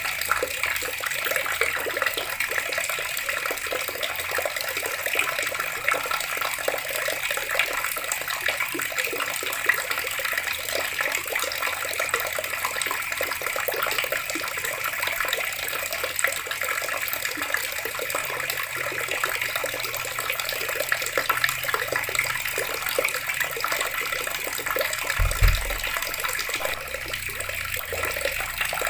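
Water running steadily from a tap and splashing. Near the end there is a brief low thump.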